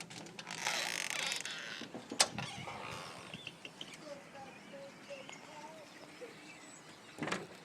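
A flock of birds calling faintly, in scattered short chirps. There is a brief rushing noise near the start, a single click about two seconds in, and a short louder sound near the end.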